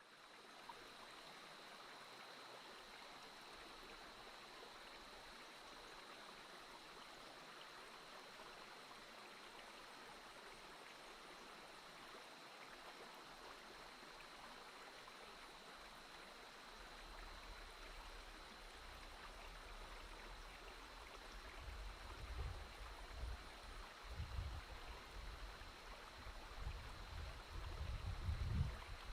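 Faint steady rush of a flowing stream, with a thin steady high whine running through it. Low irregular rumbles come in over the second half and are strongest near the end.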